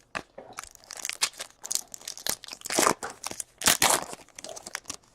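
Trading-card pack wrappers crinkling as cards are handled: a run of short rustles and sharp crackles, loudest around three and four seconds in.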